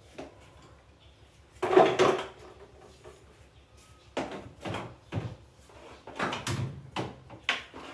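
Household handling sounds: a loud clunk about two seconds in, then a run of lighter knocks and clatters.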